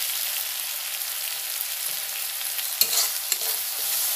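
Onion, tomato and poppy-seed paste sizzling steadily in mustard oil in a metal kadai as a steel spatula stirs and scrapes through it, with a few sharp clicks of the spatula on the pan about three seconds in.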